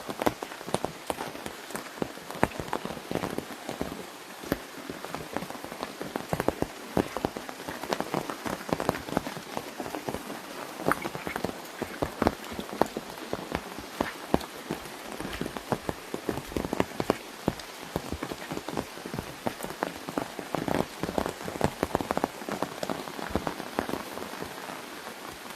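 Rain falling on an umbrella overhead: a steady hiss of rain with many sharp, irregular drop hits on the canopy.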